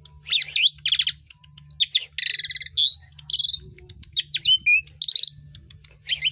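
Asian pied starling (jalak suren) singing a busy, varied song: quick chattering phrases, trills and whistled notes, coming in short bursts about every half second with brief pauses between. A faint steady low hum lies underneath.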